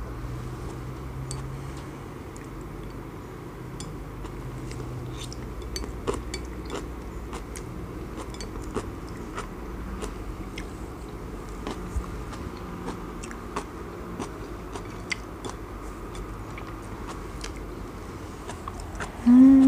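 Close-miked chewing and biting of kimchi, with many small sharp clicks scattered throughout. A short hummed "mmm" comes right at the end.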